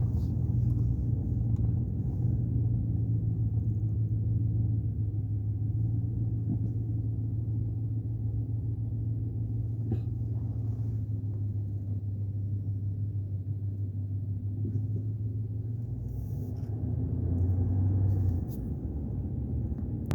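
Vehicle driving: a steady low engine and road rumble, swelling slightly near the end and then easing off.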